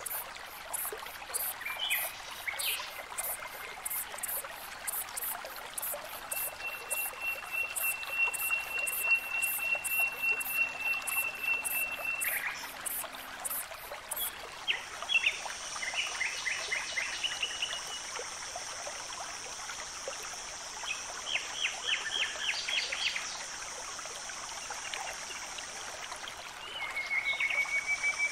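Outdoor nature ambience of birds and insects. An insect pulses at about two beats a second through the first half, then gives way to a steady high buzz. Birds call over it: a long level whistle, then several short chirping trills.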